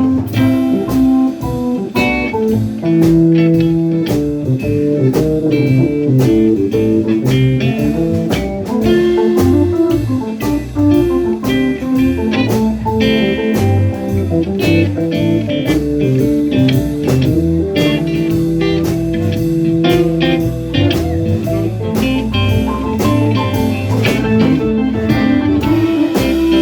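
Live blues band playing an instrumental passage: electric guitar carrying the lead over bass and a drum kit keeping a steady beat.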